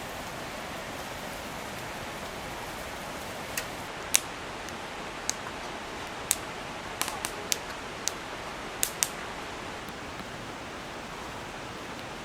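Steady rushing of a clear mountain stream flowing past. About a dozen sharp, separate clicks fall in the middle of the stretch.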